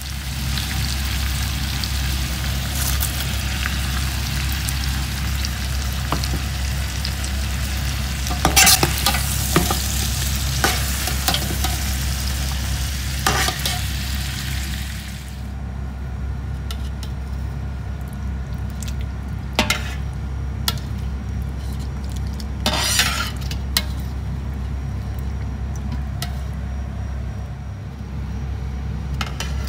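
Sheep trotters and tripe frying with onions in a large steel pot, sizzling while a metal slotted spoon stirs them and scrapes and clinks against the pot. About halfway through the sizzle stops, leaving a steady low hum with a few sharp spoon knocks on the pot.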